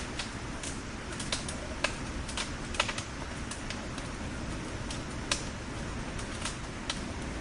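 Bonfire crackling: irregular sharp pops and snaps of burning logs over a steady low rumble of the flames, with a few louder pops about two, three and five seconds in.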